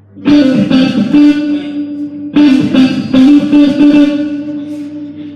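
Electric guitar through an amplifier during a band's sound check, playing a few loud chords that ring out and fade between strikes.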